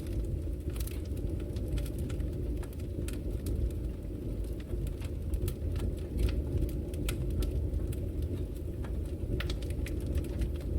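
Wood fire burning in a fireplace: a steady low rumble of flame with frequent, irregular sharp crackles and pops from the burning logs.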